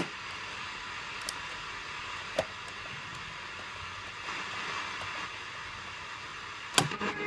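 Vintage Blaupunkt Bamberg car radio hissing with FM static between stations through a single speaker. Sharp clicks break the hiss, a loud one at the start and another cluster near the end, as the station is changed.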